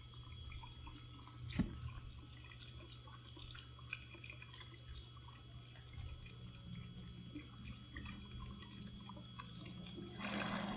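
Faint trickling and dripping of pool water over a steady low hum, with a single knock about a second and a half in and a brief rush of noise near the end.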